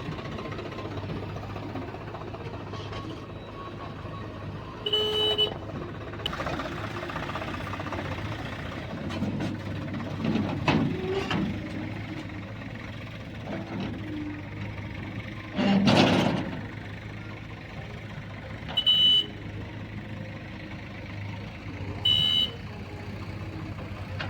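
Heavy diesel engines of a backhoe loader and tractors running steadily, with three short vehicle horn toots spread through, and one loud crash about two-thirds of the way in, typical of a loader bucket dumping its load.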